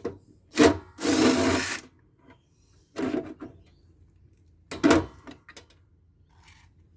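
Solar inverter parts being pulled and handled during a hand teardown: a sharp knock, then a rasping scrape lasting just under a second, then more knocks and clatter about three and five seconds in.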